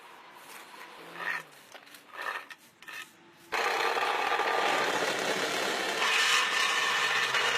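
A few short scrapes, then about three and a half seconds in a loud, steady grinding noise from road-repair machinery starts abruptly and keeps going.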